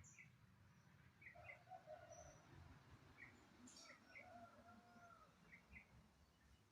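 Faint bird calls: short chirps, many in quick pairs, repeating every second or so, with a few brief high notes and soft whistled glides in between.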